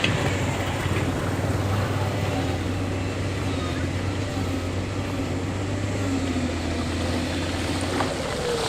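Diesel engine of a heavy earthmoving machine running steadily with a low drone, with a few brief knocks, one near the start and one near the end.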